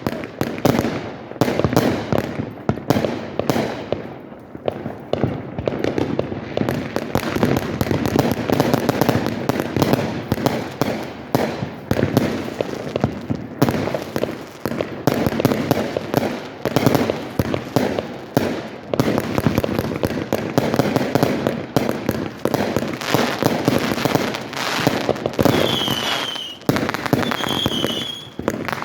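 Fireworks show: a continuous barrage of bangs and crackling bursts, with three short high whistles near the end.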